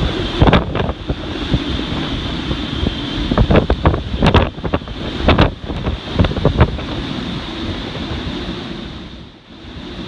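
Hurricane-force wind buffeting the microphone: a loud, constant rumble broken by several sharp gusts, easing briefly near the end.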